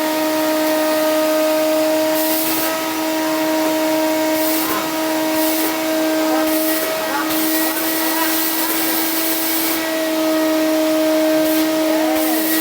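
Vacuum cleaner running steadily: a constant motor whine over the rushing hiss of its airflow, which brightens briefly several times.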